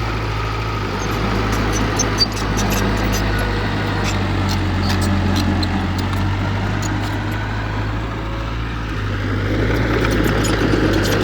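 Heavy diesel engine of earthmoving equipment running steadily, with scattered light clicks and one short knock about two seconds in.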